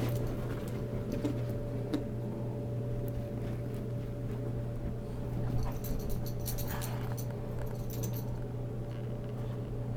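Light metallic jingling and clicking, fitting dogs' collar tags shaking as they play, heaviest about six to eight seconds in, over a steady low hum.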